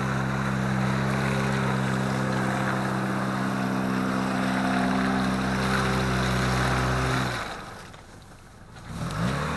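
Off-road 4x4 engine running at steady high revs, with a rushing noise over it, which stops abruptly about seven seconds in. Just before the end, an engine revs up.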